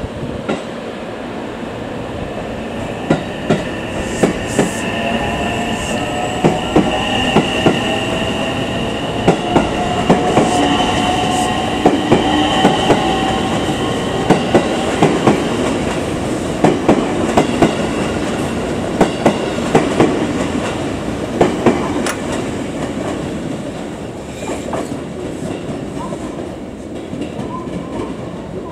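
Electric commuter train pulling away, its wheels clattering over rail joints and turnouts in quick double clicks, loud where the track is full of points. A whine rises in pitch for several seconds as it gathers speed. The clatter eases toward the end.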